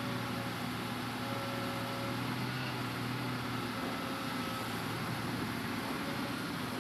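Hitachi Zaxis 200-5G excavator's diesel engine running steadily, an even hum with a few held tones and no change in pace.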